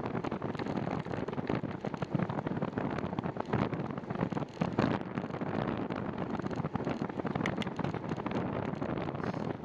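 Wind buffeting the microphone of a camera riding along on a moving bicycle, a steady rushing noise broken by irregular gusty thumps.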